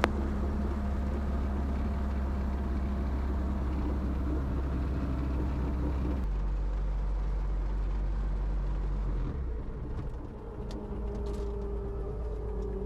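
A helicopter running on the ground at reduced power for its engine cooldown after landing, a steady drone. The drone changes abruptly about six seconds in and dips briefly near ten seconds, then a steady mid-pitched tone runs near the end.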